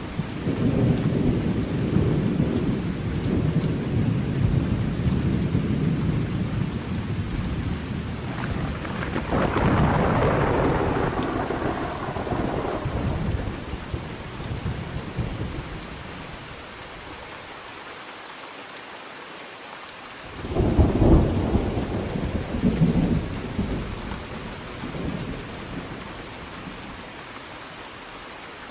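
Thunderstorm: steady rain with rolling thunder, a long low rumble through the first half, then a sharp thunderclap about two-thirds of the way in, with its rumbles rolling off in echoes.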